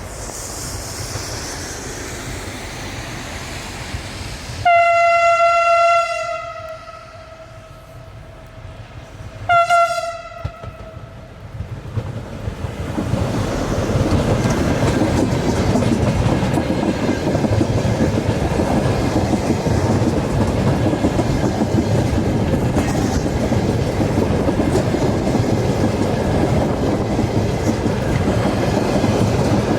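ER20CF diesel locomotive sounds its horn twice, a long blast and then a short one, its pitch dipping slightly at the end; then the intermodal train passes close by with a loud steady rumble and wheels clicking over the rail joints.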